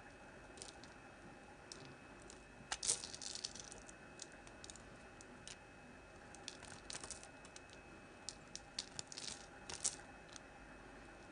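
Hard Palmolive bar soap being cut with a knife, giving short crisp clicks and crackles in a few clusters, the loudest about three seconds in.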